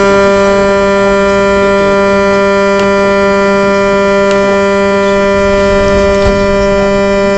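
Vehicle horn held down in one long, loud, unbroken blast at a steady pitch.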